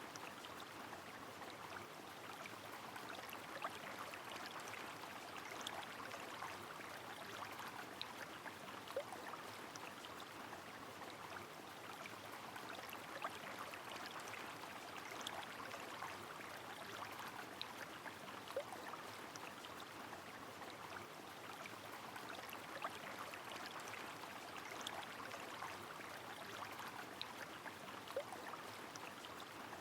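Rain falling on a flowing river: a steady wash of running water, dotted with many small sharp drop ticks.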